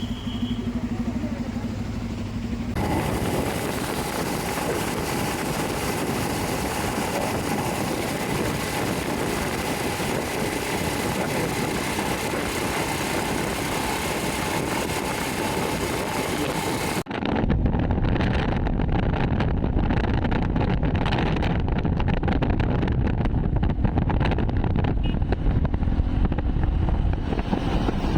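Hero XPulse 200 4V single-cylinder motorcycle being ridden, its engine under a steady rush of wind noise. About 17 s in the sound cuts abruptly to louder, lower, gusty wind buffeting on the microphone.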